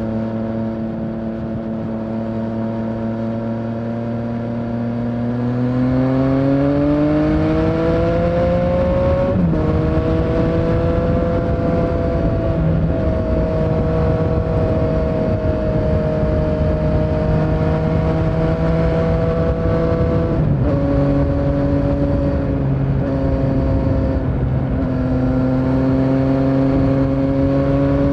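Yamaha Tracer 900's 847 cc three-cylinder engine under way, rising steadily in pitch from about five seconds in as the bike accelerates, with drops in pitch around nine and twenty seconds, over a constant rush of wind and road noise.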